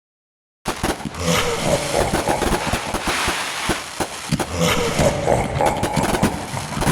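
A firework burning with a loud hiss and dense crackling pops, starting abruptly just under a second in and cutting off sharply near the end.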